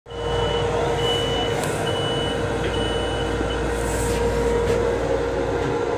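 Steady hum and rumble of an M7 electric railcar, heard inside its enclosed restroom, with a constant mid-pitched drone. A high electronic beep sounds about once a second, four or five times, during the first three and a half seconds.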